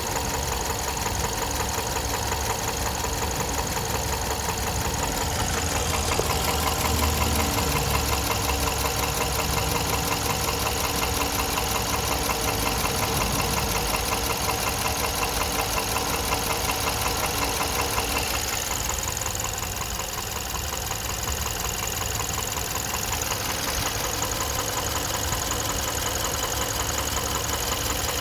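Suzuki J24B 2.4-litre four-cylinder petrol engine running with a persistent knock. The knock remains after the VVT actuator, timing chain, cylinder head, valves, main bearings and piston rings were replaced, and the owner suspects the camshafts.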